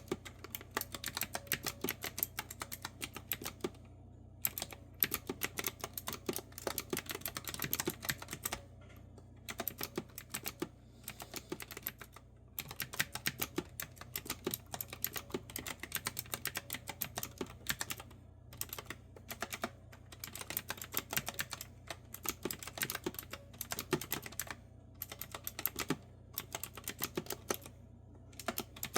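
Clicky retro-style keyboard with round keycaps being typed on in quick runs of crisp keystrokes, broken by brief pauses of about half a second every few seconds.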